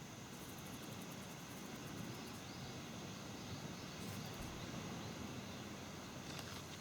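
Steady outdoor ambience: a low, even rushing noise with faint insect chirping over it.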